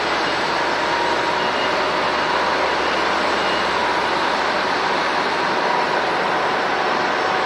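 Airbus A350's Rolls-Royce Trent XWB turbofan engines running with a steady, even rush and faint steady whining tones, neither rising nor falling.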